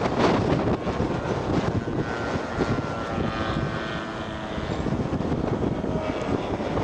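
Radio-controlled scale model airplane's engine droning as it flies by, its pitch falling slightly, under heavy wind noise on the microphone.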